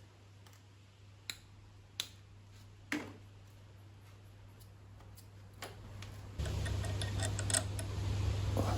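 Three sharp separate clicks about a second apart, then a steady low hum comes in about six and a half seconds in with a few more clicks over it.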